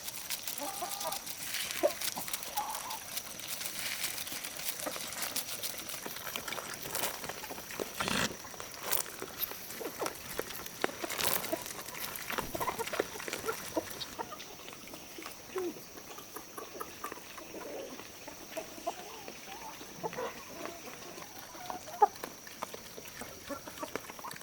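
Domestic chickens clucking on and off, with many short clicks and taps around them.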